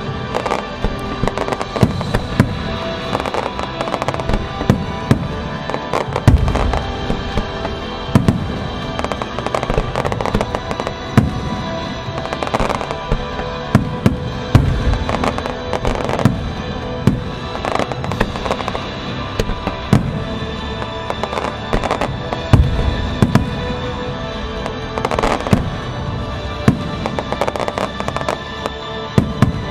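Japanese music star mine fireworks: firework shells bursting in quick, irregular succession with sharp bangs, at times several a second. Music plays underneath throughout.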